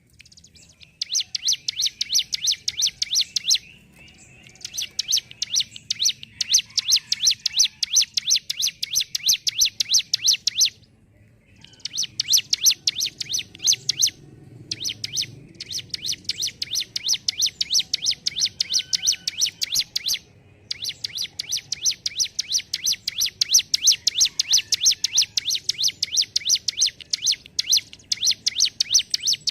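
Ciblek gunung (a prinia) singing a rapid rattling 'ngentrok' song: long runs of fast, evenly repeated sharp high chip notes, with brief pauses between runs.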